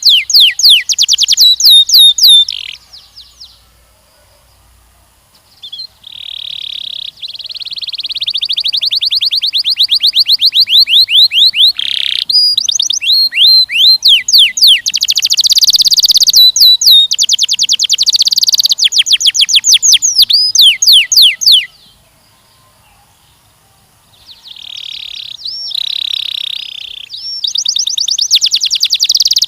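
Canary singing long, loud phrases of rapid trills, each a fast run of repeated notes, with a break of about two seconds after the opening phrase and another near the end.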